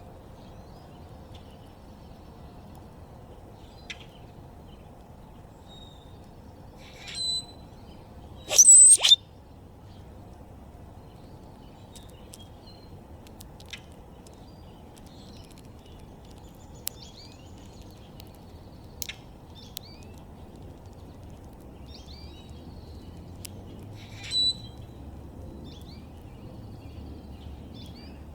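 Wild backyard birds chirping and calling now and then over a faint steady background hiss. There is one loud, sharp double call about nine seconds in, and smaller calls a second before it and near the end.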